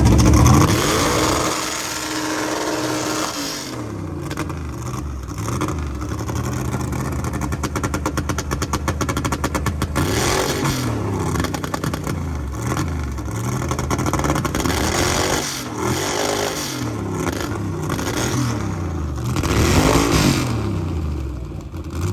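Car engine with a loud competition exhaust being revved over and over, its pitch climbing and dropping in quick blips, with bigger, harder revs about ten seconds in and again near the end.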